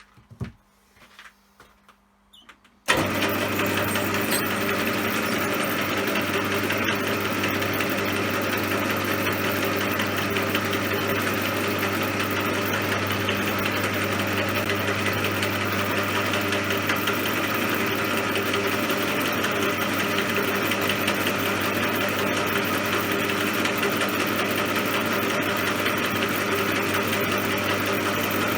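A CJM360 benchtop metal lathe switched on about three seconds in, then running steadily with an even motor hum and a high whir. A few faint clicks come before it starts.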